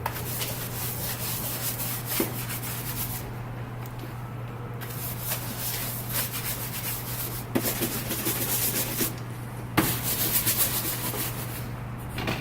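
Wet soft-bristled brush scrubbing soapy engine-bay surfaces in quick back-and-forth strokes, pausing twice, with a few light knocks of the brush against parts. A steady low hum runs underneath.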